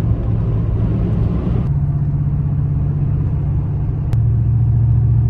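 Truck driving along: a steady low engine and road rumble. The higher hiss cuts off suddenly about a second and a half in, and the rumble gets a little louder near the end.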